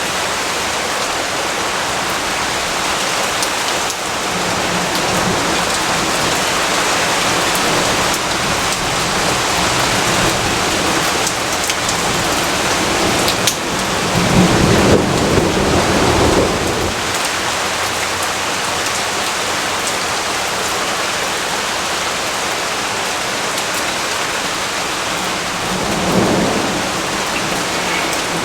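Steady, heavy rain falling. A low rumble of thunder swells for a few seconds about halfway through, and a shorter, fainter rumble comes near the end.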